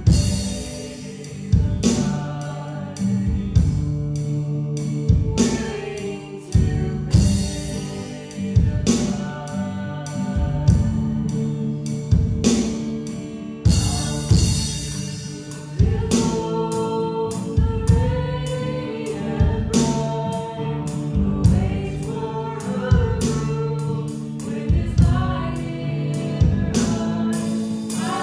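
A worship song: voices singing together over an instrumental band with drums keeping a steady beat.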